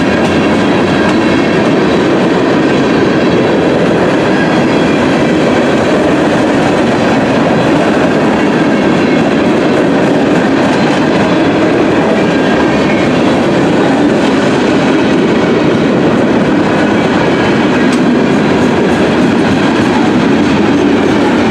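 Freight cars rolling past close by: a loud, steady rolling noise of steel wheels on the rails from a string of covered hoppers, gondolas and boxcars.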